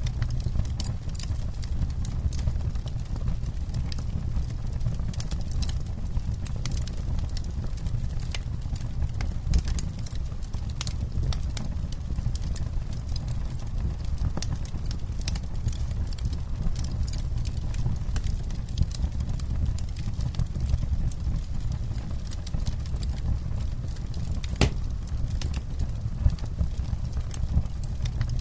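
Campfire burning with many irregular small crackles and pops over a low steady rumble, and one louder pop about three-quarters of the way through.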